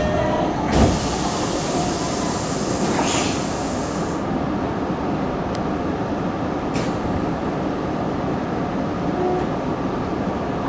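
Tokyo Metro Tozai Line train standing at the platform: a thump, then a loud hiss of released air for about three seconds that cuts off sharply, then the steady hum and rumble of the stopped train with a couple of faint clicks.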